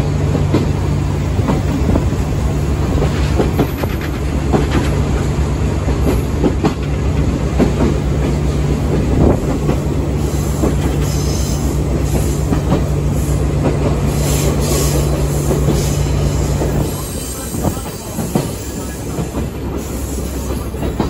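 Sagano Romantic Train's cars running along the track, wheels clattering over the rail joints, with faint high wheel squeals in the middle. A steady low hum drops away about 17 seconds in and the noise eases off.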